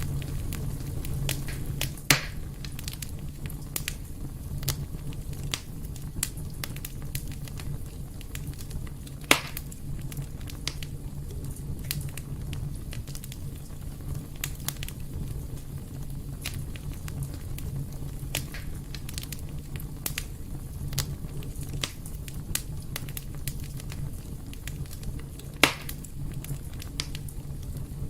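Fire burning in a fireplace: a steady low rumble with constant small crackles and three sharper pops, about two seconds in, near nine seconds and near the end.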